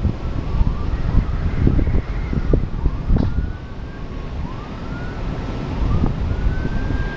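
Emergency vehicle siren sounding, its pitch rising again and again about once every second and a half, over loud wind noise on the microphone.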